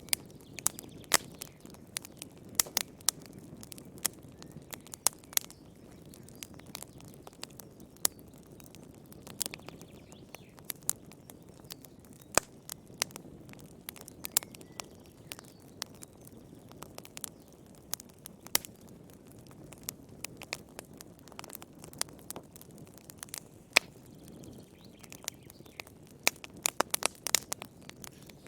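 Wood fire crackling in a fireplace: sharp, irregular pops and snaps over a steady low rush of flame.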